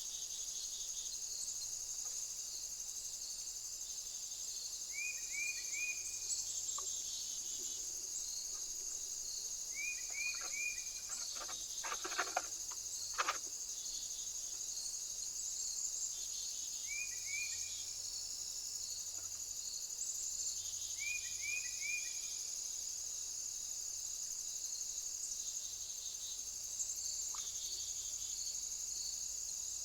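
Steady high-pitched insect chorus. A short three-note chirp repeats every four to six seconds, and a few sharp knocks come about twelve seconds in.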